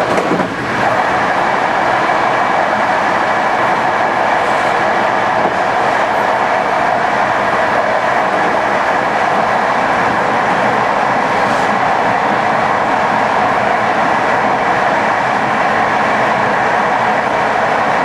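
Passenger train running along the line: a steady, continuous rolling noise of wheels on rails.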